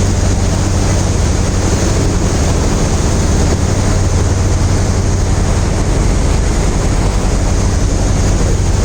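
Steady engine drone with a low hum, mixed with constant wind and water noise.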